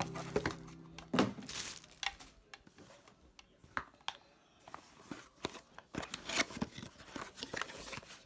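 Crinkling and tearing handling noises, like packaging being handled, with irregular clicks and rustles. Background music fades out about a second in.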